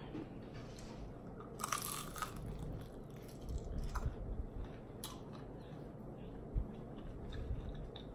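Close-up crunching and chewing of crispy fried chicken wing, with a burst of crunches about two seconds in and steady chewing after.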